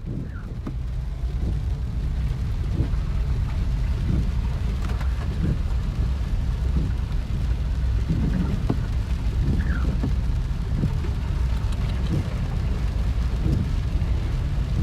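Heavy rain, with a steady low rumble beneath it.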